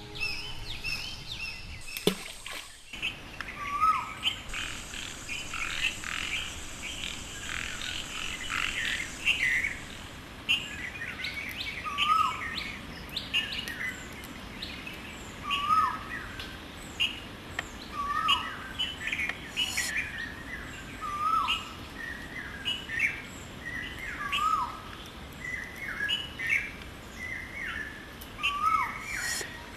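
Forest birdsong: a chorus of small birds chirping and twittering, with one bird repeating a short, lower hooked call about every two seconds. A steady high buzz sounds for several seconds in the first third.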